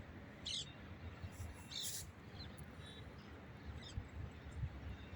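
Outdoor ambience: a few short, high birds' chirps, loudest about two seconds in, over a low rumble.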